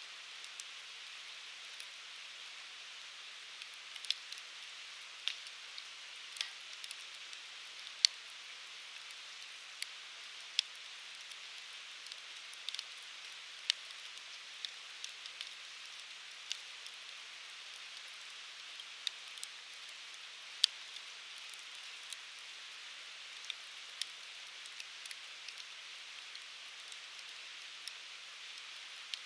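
Firewood burning in an open fire: a steady soft hiss with frequent irregular sharp pops and crackles, two of them louder snaps.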